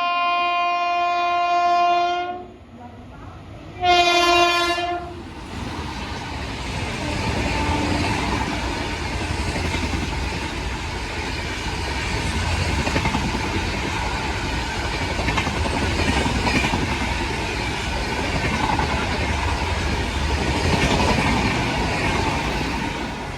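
Indian Railways locomotive horn: a long blast that cuts off about two seconds in, then a short second blast. It is followed by the steady rumble and rush of a passenger train's coaches running past at speed.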